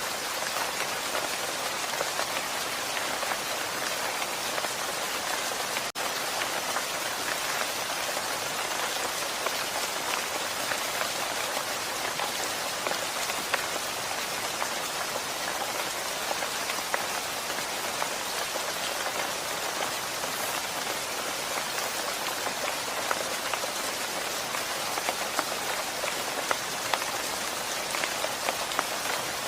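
Steady rain falling, an even hiss dotted with many sharp individual drop hits. The sound dips for an instant about six seconds in.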